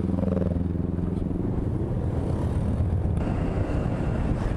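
Motorbike riding in traffic: a steady engine hum for the first second and a half that fades into continuous road noise.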